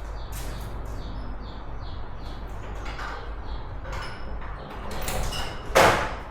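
A sliding window being pushed open: a scraping slide about five seconds in, ending in one loud knock as it reaches its stop near the end.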